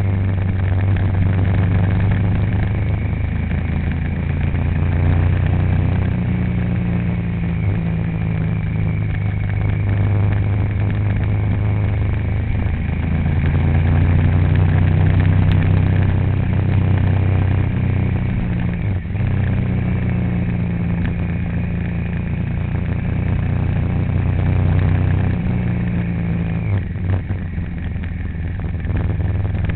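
A motor vehicle's engine running steadily while driving, its low drone stepping up and down in pitch every few seconds as the speed changes, over constant road noise.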